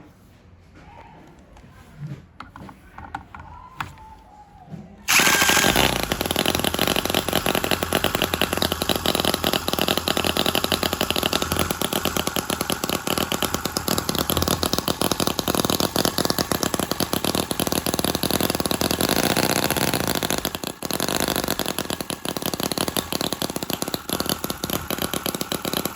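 Small model V-twin engine starting about five seconds in, after a few handling clicks, then running at a fast, steady firing rate with one brief stumble near the end.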